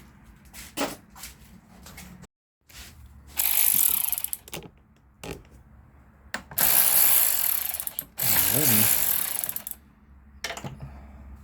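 Ratchet wrench clicking in three spells as an 11 mm nut on a battery cable terminal is worked loose.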